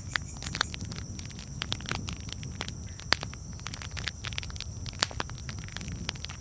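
Campfire crackling: irregular sharp pops and snaps, one louder pop about three seconds in, over a low steady rumble of burning wood.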